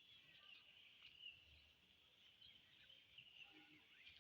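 Near silence: faint, steady high-pitched chirping in the background.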